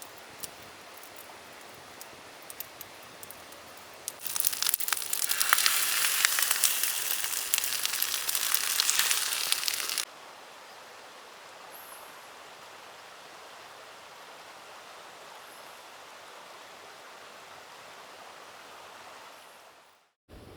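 Faint campfire crackling with a few small pops, then about four seconds in, loud sizzling of fried rice in a hot pan for about six seconds, cutting off suddenly. A steady faint rush of river water follows and fades out near the end.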